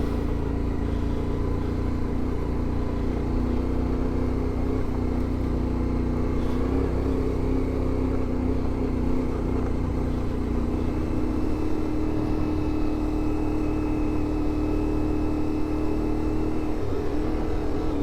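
CFMoto 450MT parallel-twin engine running steadily under way on a dirt road. About two-thirds of the way through, the engine note settles to a slightly higher steady pitch.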